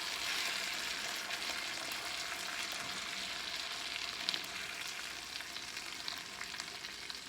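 Chicken thighs sizzling in a hot pan of honey, brown sugar and butter glaze, the burner already switched off, with a few light clicks. The hiss eases slightly in the second half.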